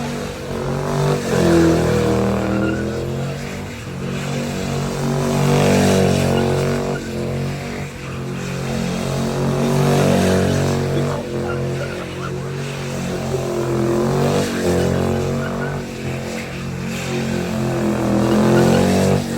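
Muscle-car engine revving hard in repeated surges, its pitch climbing and falling every few seconds.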